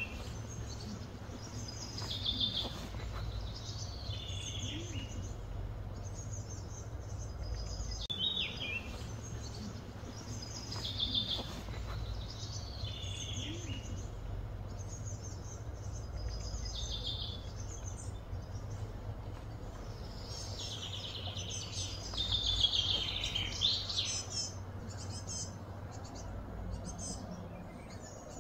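A songbird singing the same short chirpy phrase over and over, about every two to three seconds, with a longer, louder run of song about twenty seconds in, over a steady low hum.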